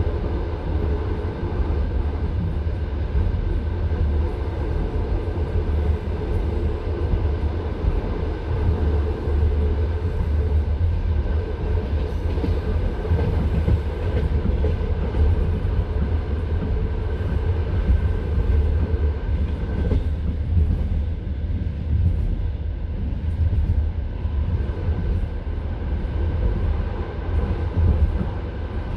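Passenger train carriage running between stations, heard from inside the car: a steady low rumble of wheels on the rails with continual knocking and rattling.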